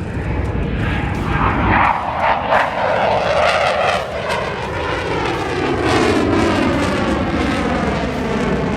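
An aircraft flies past loudly, its engine roar sliding down in pitch as it goes by.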